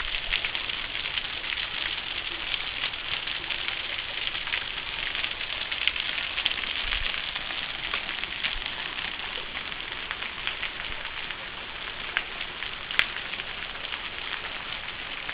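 Waterfall water falling and splashing onto rock close by: a steady hiss with many small splashes and drips.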